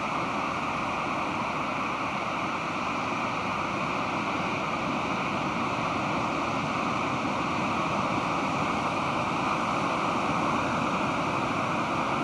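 Pacific Ocean surf: a steady wash of breaking waves that swells slightly louder over the last few seconds.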